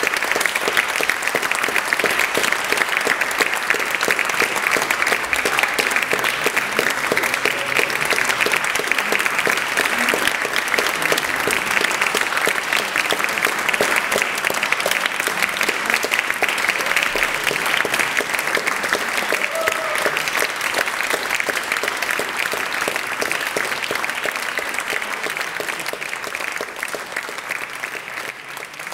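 Audience applauding, dense steady clapping that tapers off near the end.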